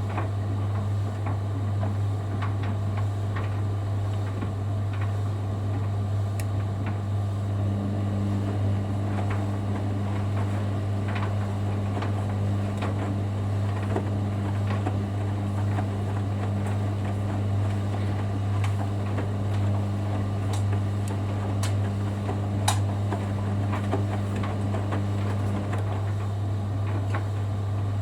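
Hoover Dynamic Next front-loading washer-dryer running its wash: a steady low motor hum with scattered small clicks and splashes as the drum turns the load. A second, higher steady tone joins about eight seconds in and drops out a couple of seconds before the end.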